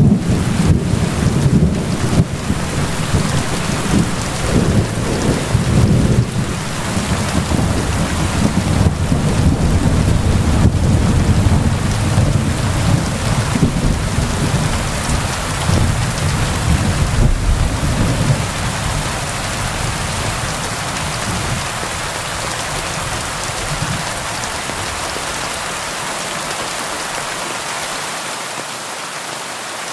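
Steady rain on a window, with a long low rumble of thunder that dies away over the second half.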